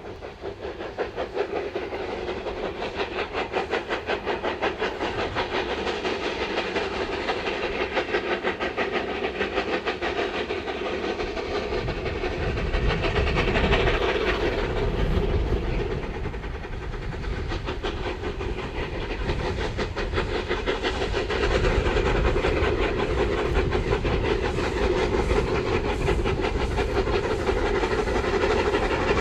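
An NGG 13 Garratt and a second narrow-gauge steam locomotive double-heading up a grade. Both engines work hard, giving a fast, continuous chuffing from their exhausts. It grows louder about halfway through and again near the end.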